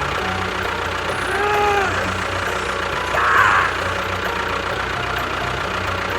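Engine idling steadily with a low pulsing note, with a short arching tone about a second and a half in and a brief chirp a little after three seconds.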